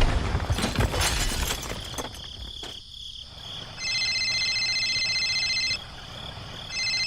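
Clattering and rustling with sharp clicks for about two seconds, then an electronic ringing tone that sounds for about two seconds, stops, and starts again near the end. A faint high pulsing chirp runs underneath.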